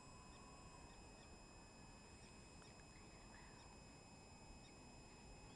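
Near silence: quiet open-air ambience with scattered faint, short bird chirps.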